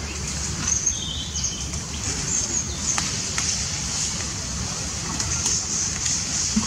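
Outdoor ambience: a steady low rumble and a high hiss, with a few short high chirps about a second in and scattered light clicks.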